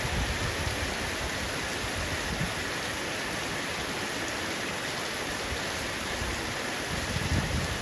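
Heavy rain falling steadily on a roof, an even hiss, with brief low rumbles near the start and again about seven seconds in.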